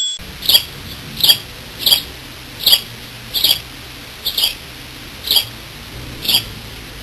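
Sound effect of a small animal's short, high squeaks, about one a second, over a steady low hiss.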